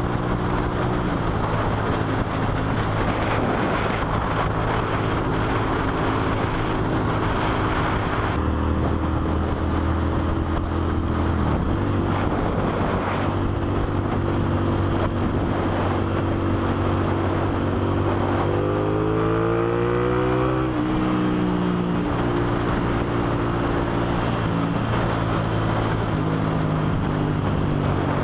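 Suzuki SV650's V-twin engine running at road speed with constant wind rush. About two-thirds through, the revs climb and then drop at an upshift, and they climb again right at the end.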